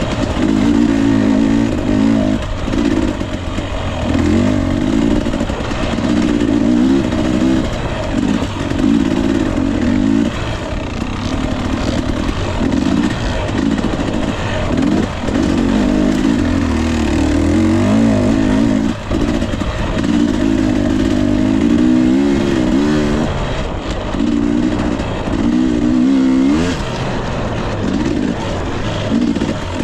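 Husqvarna TE 250i two-stroke fuel-injected dirt bike engine, revving up and down continuously under throttle.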